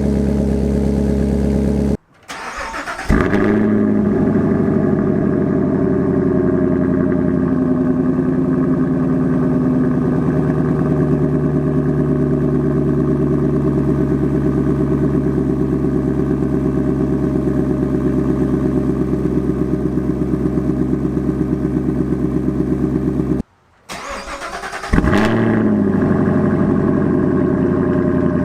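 2020 Camaro SS's 6.2-litre LT1 V8 idling through a Borla S-Type axle-back exhaust. About two seconds in and again near the end the sound drops out briefly and the engine starts up, the revs flaring up and falling back to a steady idle.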